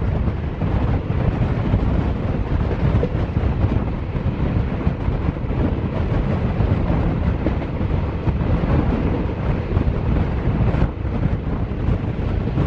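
Steady rumble of a moving passenger train heard from aboard, with wind rushing across the microphone.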